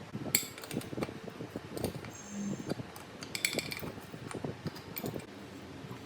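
Metal parts and tools being handled: a run of light clicks and knocks with two ringing metallic clinks, one just after the start and one about three and a half seconds in.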